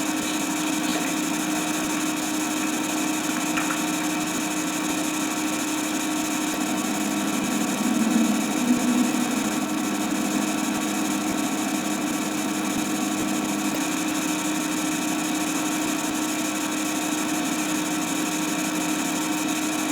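A steady machine hum and whirr that holds constant, with a slight swell about eight seconds in.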